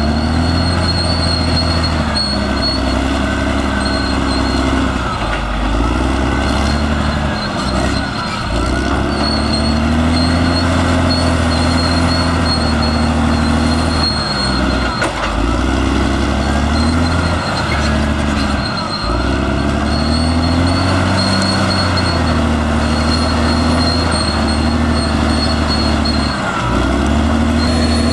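Caterpillar D6R XL bulldozer's diesel engine working under changing load: its pitch repeatedly sags and recovers, dropping sharply several times, over a steady high whine.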